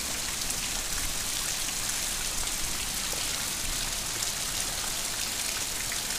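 Heavy rain pouring down onto puddles and wet ground: a steady, even hiss of falling drops.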